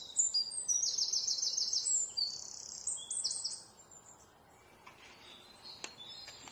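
Small birds chirping in quick, high-pitched trills of repeated notes. The trills stop about three and a half seconds in, leaving a quiet background with a couple of faint clicks.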